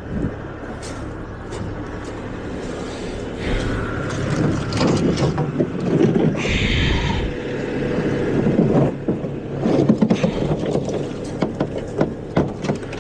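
A Bobcat skid-steer loader's engine runs steadily, with scattered clanks, knocks and a scrape of junk and debris being moved.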